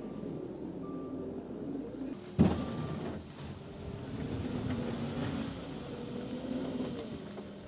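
A vehicle engine running steadily, with one sharp loud bang about two and a half seconds in.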